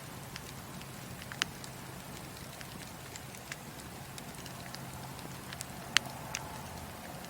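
Wood fire crackling in a fireplace: a steady soft hiss broken by irregular sharp pops and snaps, the loudest snap about six seconds in.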